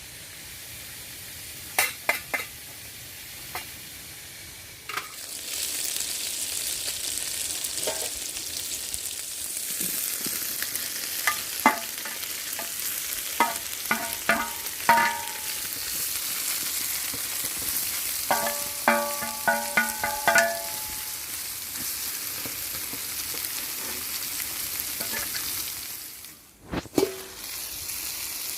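Food sizzling in a hot pan, with a utensil being stirred and knocked against the pan: clusters of sharp clinks that ring briefly. The sizzle grows louder about five seconds in and dips briefly near the end.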